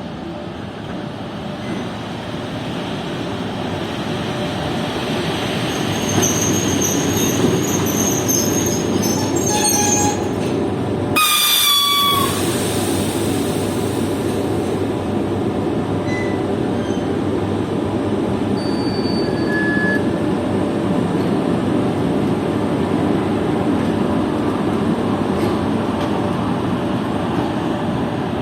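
EP1 electric locomotive pulling away, a loud steady noise that builds over the first several seconds. A thin high squeal comes in around six to ten seconds, and a brief high horn signal sounds about eleven seconds in.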